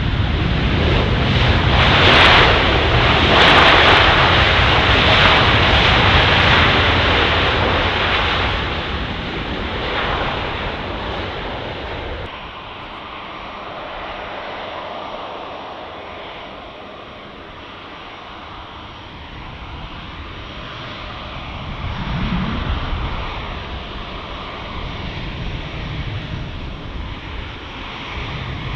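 Jet airliner engines roaring as the aircraft passes close by, loudest in the first few seconds and then fading away. After an abrupt change about twelve seconds in, quieter aircraft engine noise continues, swelling again with a low hum near the end.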